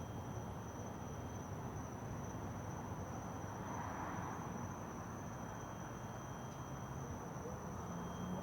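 A faint, steady high-pitched ringing in the air that holds one unbroken tone, with a fainter lower tone beneath it, over a low background rumble. Its source can't be located; it seems to come from everywhere.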